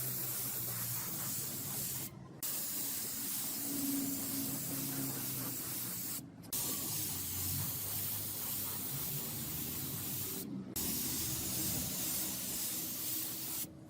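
Pressurised spray hissing steadily in long passes of about four seconds, broken by short gaps about two, six and ten seconds in, and stopping abruptly at the very end.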